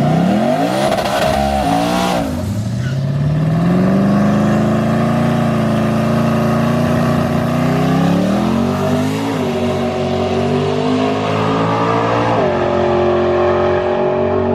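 Twin-turbo Mustang drag car's engine at full throttle down the strip, its pitch climbing and dropping sharply about two seconds in and again about twelve seconds in.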